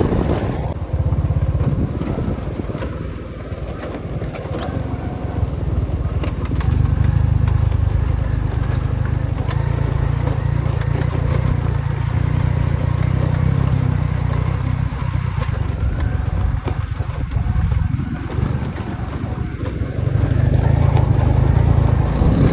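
Motorcycle running on the move, with wind rumbling on the microphone; the low rumble swells and eases several times.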